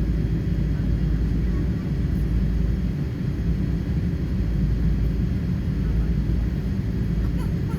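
Steady low rumble of a Boeing 777-300 airliner's cabin, with engine and airflow noise running evenly throughout.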